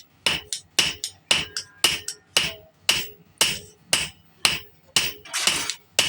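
Hand hammer striking metal on an anvil in a steady rhythm, about two blows a second, each blow with a short metallic ring.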